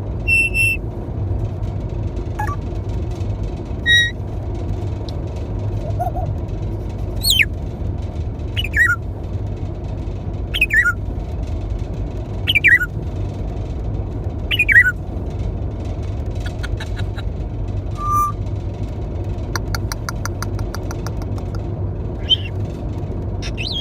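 Parrot whistling and chirping: a few short chirps, then five quick falling whistles about two seconds apart, and a short call near the end, over a steady low rumble.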